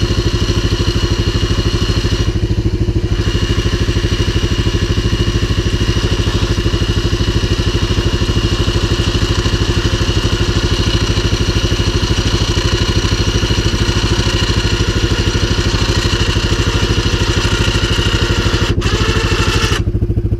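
CFMOTO 500 ATV's single-cylinder engine running at a steady, unchanging engine speed.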